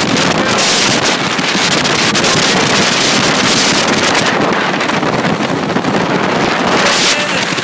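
Heavy wind buffeting the microphone, with the rush of a boat under way.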